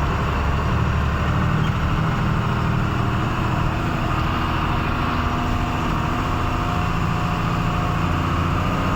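Truck engine running steadily under way, a low even drone with road noise above it.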